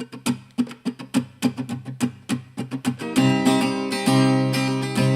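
Acoustic guitar intro: picked notes struck about three times a second, then from about three seconds in, full strummed chords that ring on.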